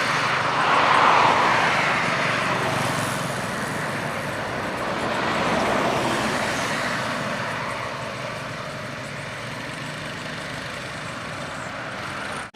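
Highway traffic passing: vehicles going by with a noisy whoosh that swells about a second in and again around six seconds, then settles to a steady lower hum.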